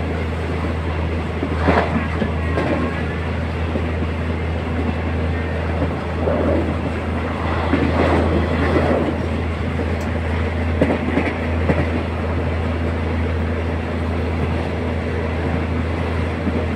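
Diesel passenger train running, heard from inside the carriage through an open window: a steady low engine drone with the wheels clattering over the rails, and a few brief louder bursts.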